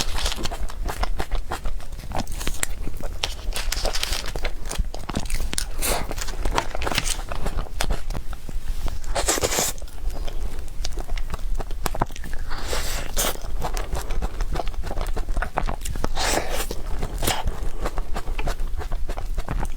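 Close-miked mouth sounds of a person eating cake: biting and chewing, with many small clicks throughout and a few louder, longer bursts about halfway and later on.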